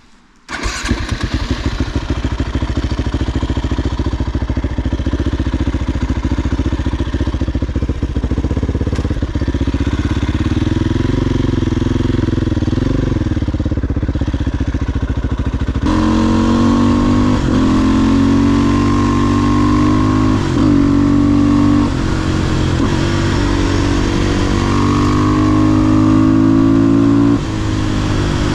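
500cc supermoto motorcycle engine starting about half a second in and running at a steady low speed. From about 16 s it runs harder and the pitch rises and falls, with brief drops near 20, 22 and 27 seconds as it shifts gear.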